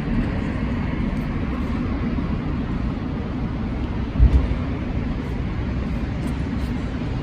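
Steady city street noise, mostly a low traffic rumble, with a brief low thump about four seconds in.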